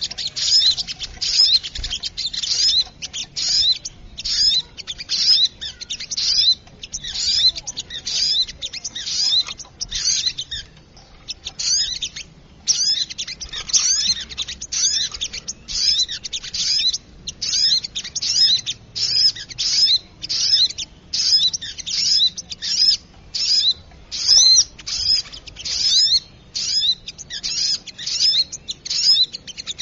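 Little spiderhunter (sogok ontong) calling over and over: short, sharp, high-pitched notes about twice a second, with a pause of about two seconds near the middle. It is a recorded lure call used to attract small birds.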